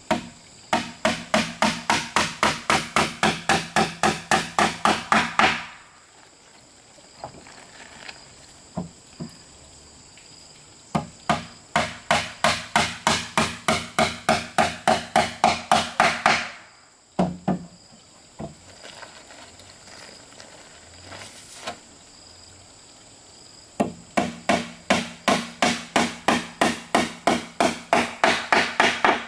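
Rapid hammering on wood, about four or five even blows a second, in three runs of roughly five seconds each with pauses between. Insects chirr steadily in the background.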